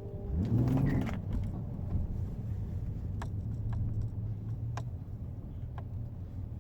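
A car engine rises quickly in pitch about half a second in, then settles into a steady low running note. A few sharp clicks come over it later.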